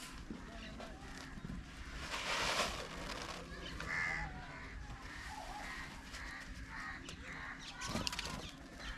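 Crows cawing several times, over a faint steady hum.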